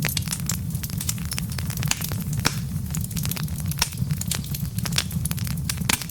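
Wood logs burning in a fireplace, crackling with many sharp irregular pops, several a second, over a steady low rumble.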